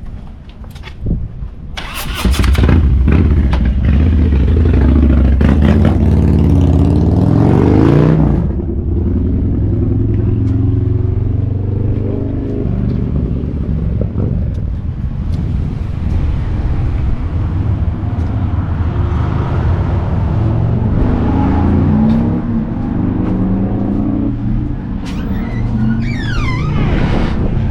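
A motor vehicle engine running loudly close by. About two seconds in it starts up loud, revs up over several seconds, then settles into steady running.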